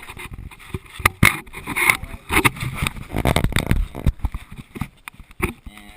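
Irregular knocks, clicks and rustling of handling, with a denser low rumble about three seconds in.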